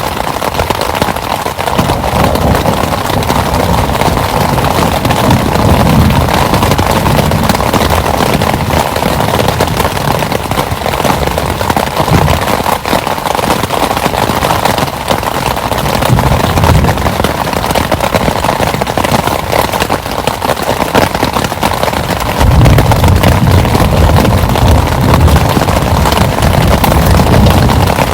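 Heavy rain pattering loudly and without a break, a dense crackle of drops. Deeper rumbling swells come and go, the longest building about 22 seconds in and running on.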